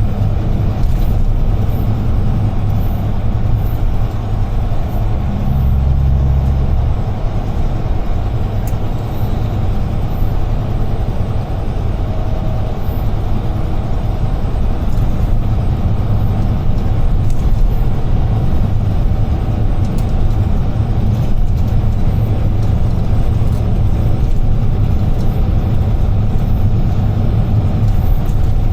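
UD Trucks Quon heavy truck on the move, heard from inside the cab as a steady low engine and road rumble. A brief, deeper swell in the rumble comes about six seconds in.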